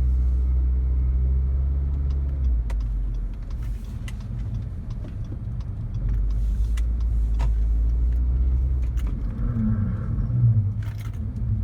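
A 2017 Acura ILX running, giving a steady low drone. The drone drops away about two and a half seconds in and comes back about six seconds in.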